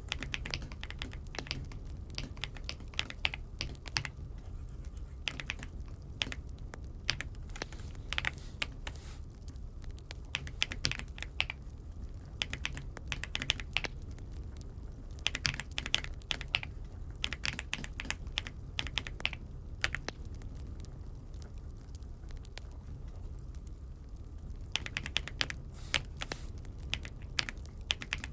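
Typing on an Aula F75 mechanical keyboard: quick runs of key clicks in bursts, with pauses of a few seconds between them, over a faint low hum.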